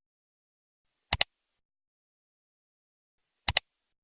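Two sharp double clicks in otherwise dead silence, one about a second in and one near the end.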